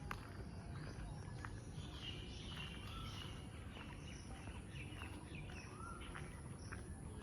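Several birds chirping and calling: many short chirps and a few brief whistled notes, scattered irregularly, over a steady low background rumble.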